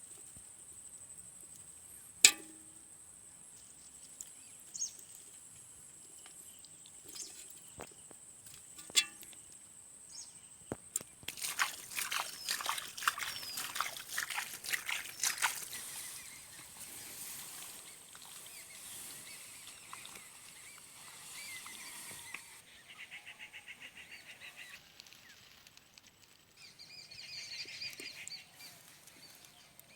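Water splashing and trickling, with a few sharp knocks and a burst of dense crackling splashes about midway.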